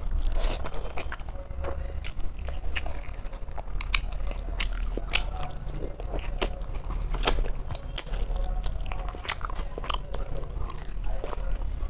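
A person chewing and eating rice with mutton head curry close to the microphone: a continuous run of irregular mouth clicks and smacks.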